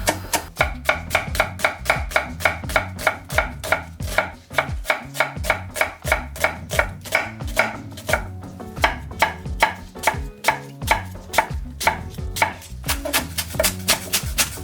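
Kitchen knife chopping vegetables on a cutting board in a quick, even rhythm of about four strokes a second, over background music.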